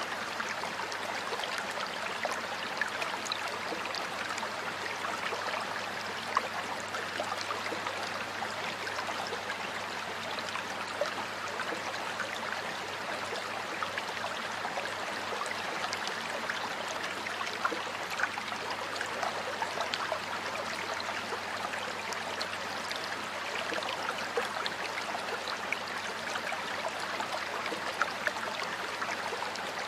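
Water flowing in a stream, a steady rushing and gurgling with small splashes and trickles scattered through it.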